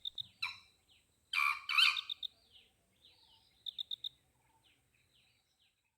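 Wild birds calling: runs of quick, short high notes and scattered brief chirps, with one louder call about a second and a half in.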